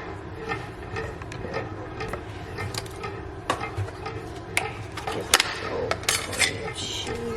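Kitchen clatter while cooking: irregular knocks and clicks of utensils, dishes and pots being handled, the sharpest about three and a half, four and a half and five and a half seconds in.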